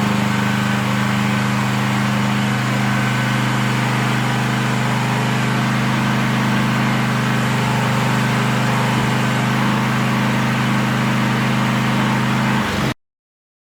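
Engine of a new AGT Industrial H13R mini excavator running at a steady idle, which cuts off suddenly near the end.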